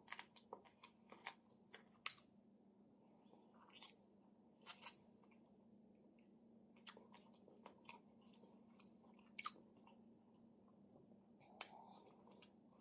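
Faint chewing of smoked chicken, with scattered short wet mouth clicks as fingers are licked, over a steady low hum.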